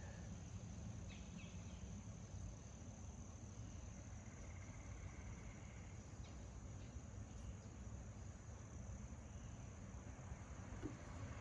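Faint steady chirring of insects, likely crickets, over a low background rumble, with a few light clicks.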